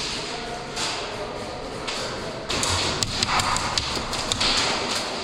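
Airsoft play: scattered sharp clicks and taps of airsoft shots and BB hits, which begin about halfway through, over repeated bursts of rushing, rustling noise.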